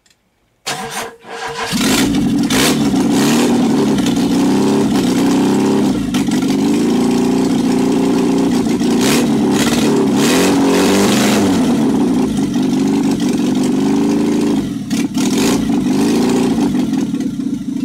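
Opel Corsa 1.2 litre inline-four engine, run without a muffler, cranked by its starter and catching within about a second. It then runs loud and unevenly, its revs wavering up and down, with a brief dip near the end.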